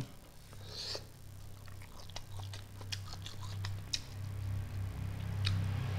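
A person chewing and smacking close to the microphone while eating fish and rice by hand: scattered sharp mouth clicks and smacks over a steady low hum.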